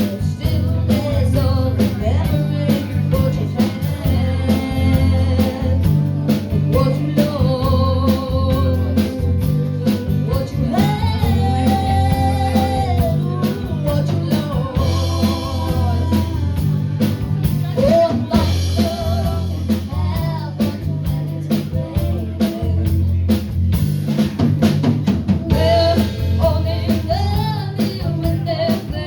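Live band playing: a singer over drum kit, guitar and bass, with a steady beat and a bass line.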